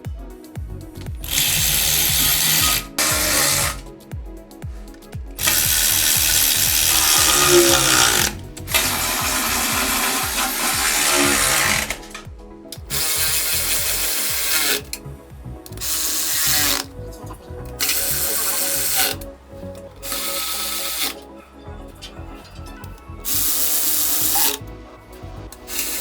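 Power tool running in about nine separate bursts, each one to three seconds long, with short pauses between them, like a powered ratchet or driver working fasteners.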